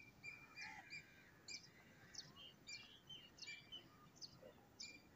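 Small birds chirping faintly: short, high chirps about twice a second throughout.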